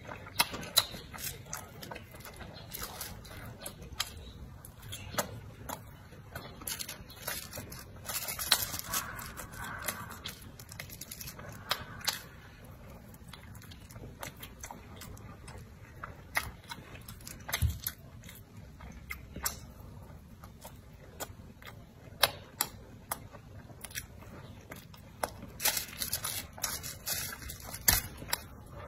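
Close-miked chewing and biting of pan-fried buns (shuijianbao), with many sharp, irregular wet mouth clicks and smacks.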